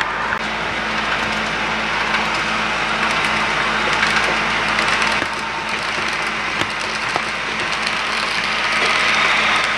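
HO scale model trains running on the layout: a steady whir and rumble with scattered small clicks.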